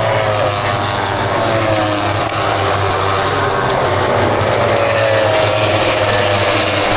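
Motorcycle engine running with a steady rush of wind noise, its pitch slowly dropping and then rising again as the revs change.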